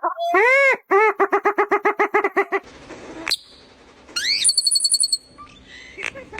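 A run of different bird calls one after another: a loud arching call, then a fast series of repeated pitched notes, about eight a second, that stops about two and a half seconds in. Later comes a high, rapid trill with rising whistles lasting about a second.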